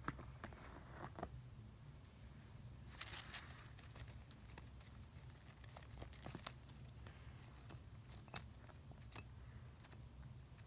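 Hamster nibbling and chewing a strawberry tart: faint, scattered crisp clicks and crackles, with a short flurry about three seconds in and one sharper click midway, over a low steady hum.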